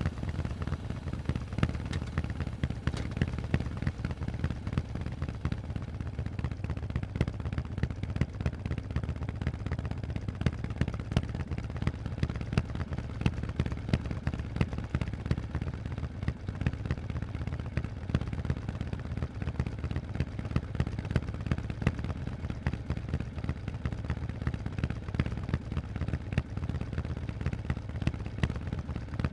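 Harley-Davidson Forty-Eight's 1200 cc air-cooled V-twin running at a steady idle through loud Vance & Hines exhausts, a low, even engine note with sharp exhaust pops all through.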